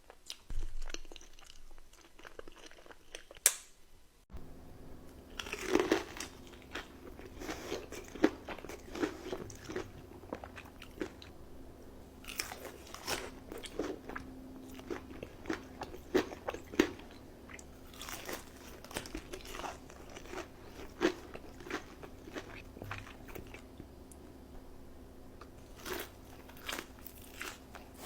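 Close-miked eating: crunchy bites and chewing, a run of sharp crunches. A steady low hum sits under it from about four seconds in.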